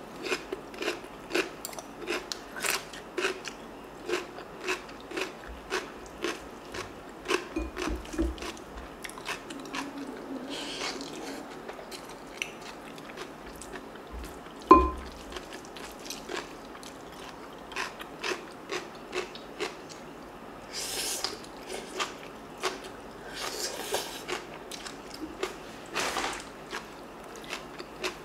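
Close-up chewing of crisp stuffed cucumber kimchi (oi-sobagi) and bean sprout rice, with sharp crunches coming about twice a second. One louder knock comes about halfway through.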